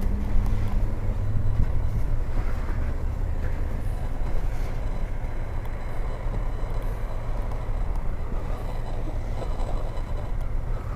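Steady low rumble of a nearby heavy vehicle engine, with a short low hum in the first second or so.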